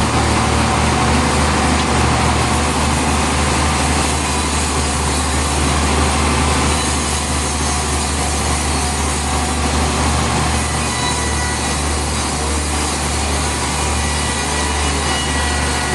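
Sawmill saw cutting through a large log, a loud steady noise over the low hum of the machine's drive motor.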